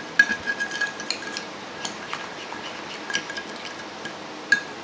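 A utensil clinking against a bowl while slime is stirred. There is a quick run of clinks in the first second, then scattered ones, the last near the end, each with a brief ring.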